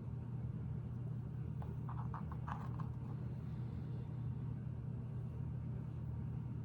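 A few small clicks of Lego pieces being handled and pressed together, about two seconds in, as barrel pieces go onto the ends of a sub-assembly. A steady low hum runs underneath.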